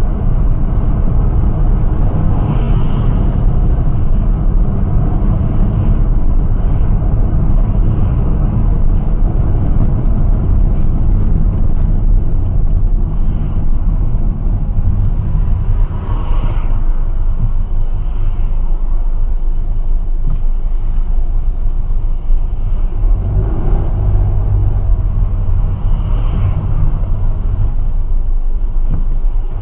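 Steady, loud low rumble of a moving road vehicle: engine and road noise that begins abruptly and carries on without a break.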